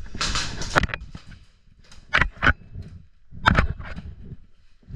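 Airsoft gun shots in short bursts of sharp cracks: a burst of under a second at the start, two single cracks about a third of a second apart around two seconds in, and another burst about three and a half seconds in.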